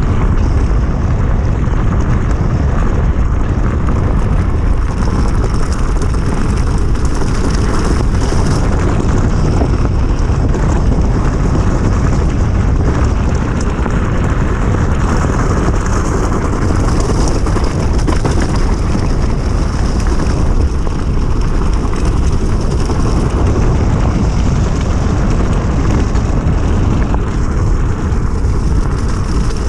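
Steady, loud wind rush and rolling noise from riding a 72 V electric enduro bike with a 3000 W hub motor, heaviest at the low end.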